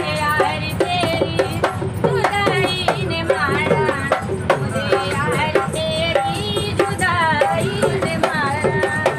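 A woman singing a folk song in ornamented, wavering runs to quick, steady strokes on a dholak drum.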